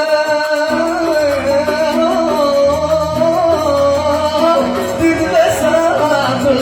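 Yemeni Sanaani song: a man's voice sings a long, wavering held note over plucked oud accompaniment.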